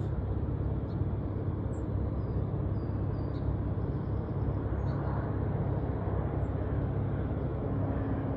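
Jet aircraft engines rumbling steadily with a low hum, with a few faint short high chirps over the top.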